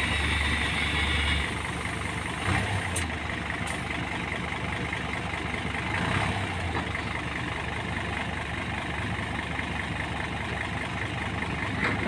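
A heavy vehicle's diesel engine running steadily. It is louder for the first second and a half, then settles to a lower, even note.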